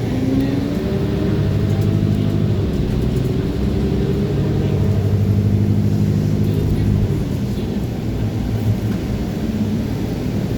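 Transit bus pulling away: its engine and drivetrain note rises over the first few seconds over a steady low rumble, holds, then eases off toward the end.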